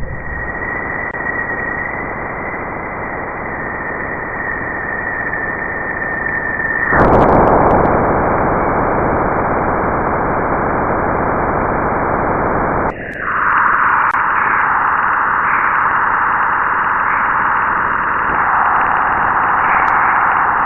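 NASA spacecraft recordings of electromagnetic waves in space, converted into audible sound: a dense hiss with a thin steady tone on top, switching abruptly about seven seconds in to a louder, fuller hiss, and again near thirteen seconds to a brighter, narrower band of hiss.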